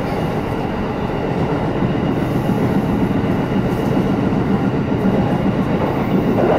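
Shinano Railway electric train running at speed, heard from inside the passenger car: a steady rumble of wheels on the rails, swelling slightly near the end.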